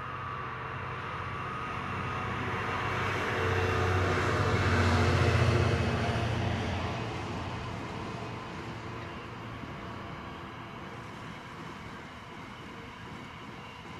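Container freight train passing. The locomotive's low hum swells to its loudest about five seconds in and drops in pitch as it goes by, then the container wagons keep rolling past with a steady rumble that slowly fades.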